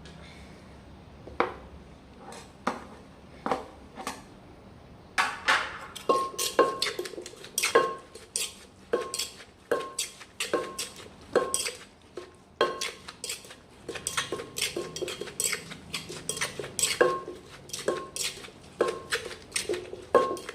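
A utensil knocking repeatedly against a dish, each knock with a short metallic ring. The knocks are sparse for about the first five seconds, then come steadily at about one to two a second.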